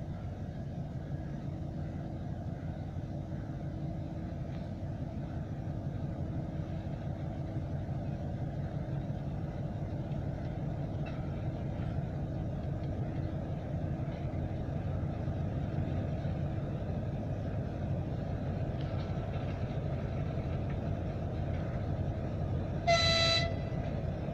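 A 2M62 diesel locomotive's engines running steadily while shunting, with one short horn blast near the end.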